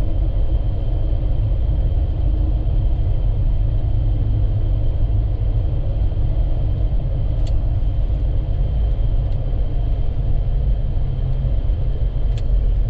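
Steady low rumble of a vehicle driving on a highway, with road and wind noise. Two faint clicks come about seven and twelve seconds in.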